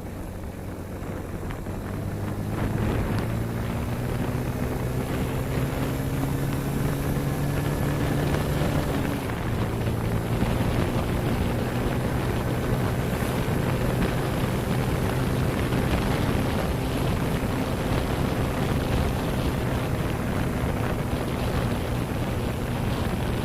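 Motorcycle engine running while riding, with wind on the microphone. The engine note rises about two to three seconds in, dips briefly about nine seconds in, then holds steady.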